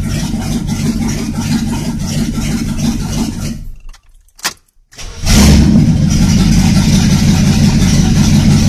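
Chevrolet L82 350 small-block V8 running with no exhaust system fitted. It dies away about three and a half seconds in, a single click follows, and about five seconds in it fires back up and runs louder than before.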